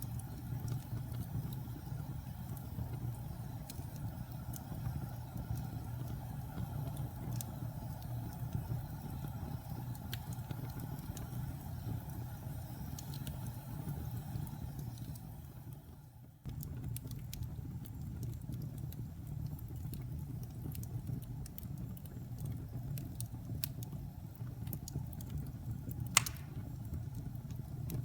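Fireplace fire burning: a steady low roar of flames with scattered small crackles and pops, and one sharper pop near the end. Just past halfway the sound fades briefly and then cuts back in abruptly.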